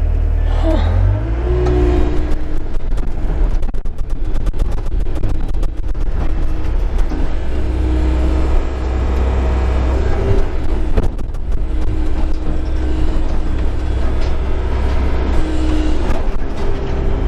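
Excavator diesel engine running under load, rising in revs about a second in, with a whine that comes and goes as the arm works. Scattered knocks and clanks from scrap metal being dragged.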